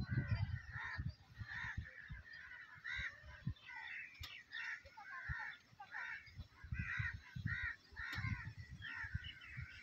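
Birds calling over and over in short rising-and-falling calls, with irregular low rumbles and knocks underneath.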